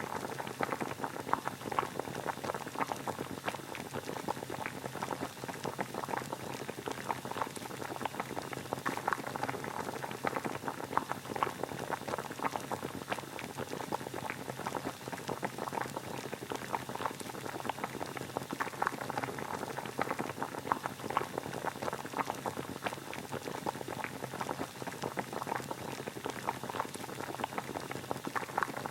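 Water boiling: a steady, dense bubbling made of many small pops, used as white noise.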